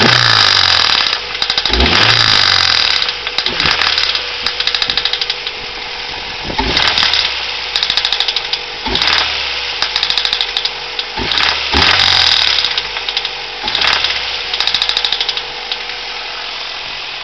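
Honda B16A2 1.6-litre VTEC four-cylinder engine revved in repeated short blips and dropping back to idle between them, with a rapid knocking that quickens with the revs. This is rod knock, from big-end bearings that turned out to be chewed up.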